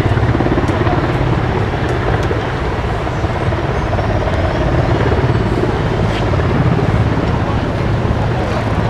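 Helicopter rotor noise, loud and steady, with a rapid rotor beat.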